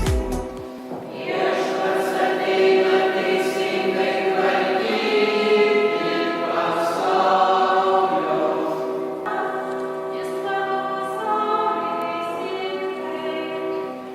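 A choir singing slow, held chords, with no accompaniment and no beat.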